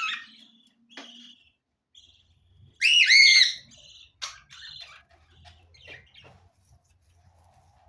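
Pet parrots chirping and calling, with a loud run of repeated arching calls about three seconds in, then scattered short chirps.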